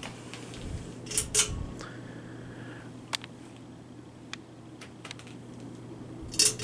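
Harbor Breeze Armitage 52-inch hugger ceiling fan running on high speed: a steady hum and whoosh of air, with a few sharp clicks, a pair about a second and a half in, one about three seconds in and a louder pair near the end.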